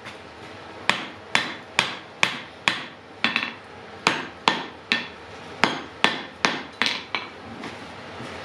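Blacksmith's hammer striking hot iron on an anvil in a steady forging rhythm, about two blows a second, each with a short metallic ring. The work is an axe head of wrought iron and steel being shaped. The blows start about a second in and stop a little over a second before the end, with a brief double strike and one short pause along the way.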